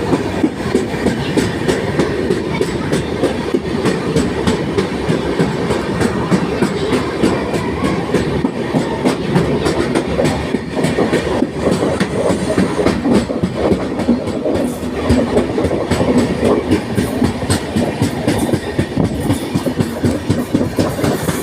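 Indian Railways train running, its wheels clicking over the rail joints in a steady clickety-clack over a continuous rumble.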